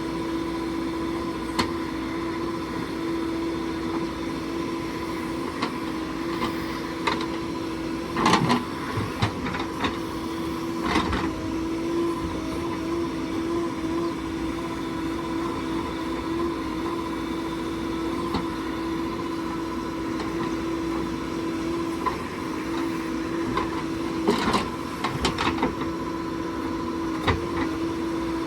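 Diesel engine running steadily at an even pitch, with a few short clunks and knocks about eight and eleven seconds in and a cluster near the end.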